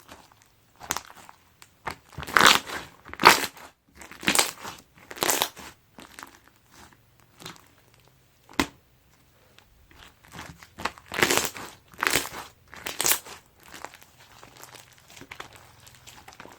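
Slime mixed with beanbag foam beads being squeezed and pressed by hand, giving irregular crunchy crackling squishes, with loudest clusters about two to five seconds in and again near the end, and one sharp click in between.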